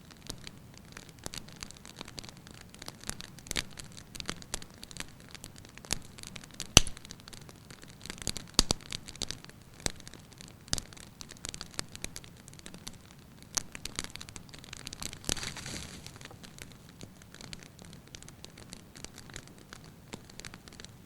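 Wood log fire crackling, with irregular snaps and pops over a low hiss. One sharp pop about a third of the way in stands out as the loudest, and a brief hissing swell comes about three quarters through.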